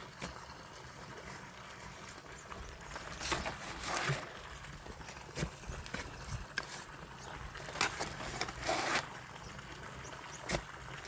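Intermittent scraping and a few sharp knocks of hand work with wet cement and stones, the longest scrapes about three to four seconds in and again about eight to nine seconds in.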